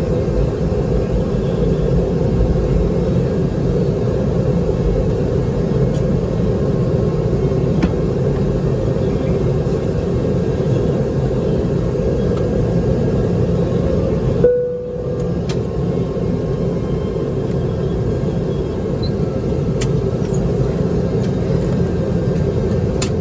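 Steady cabin rumble of a Boeing 717 airliner on the ground after landing, from its engines and air-conditioning, with a constant hum. About two-thirds of the way through the noise briefly cuts out, then carries on slightly quieter.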